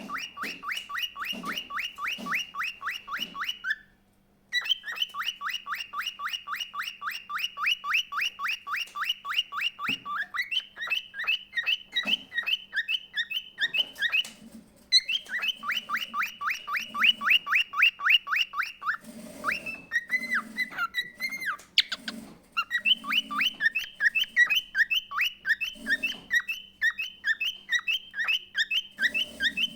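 Pet bird singing long, rapid trills of the same chirp note repeated many times a second, each run broken by a brief pause, with a stretch of varied warbling notes a little past the middle.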